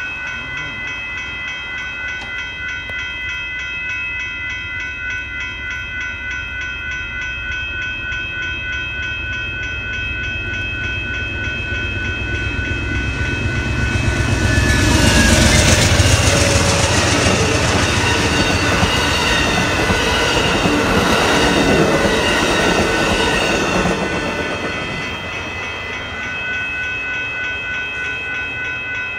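Railroad grade-crossing bells ring steadily throughout. Over this, the Amtrak Texas Eagle passenger train rolls through with its wheels clattering over the rails. The train builds up about a third of the way in, is loudest for roughly ten seconds from about halfway, then fades, leaving the bells ringing.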